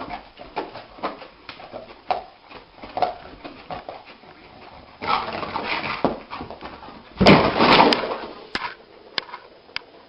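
A dog whimpering and yipping in short calls, with two louder, rougher stretches about five and seven seconds in.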